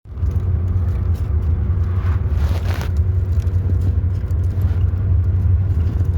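Car driving along, a steady low road-and-engine rumble.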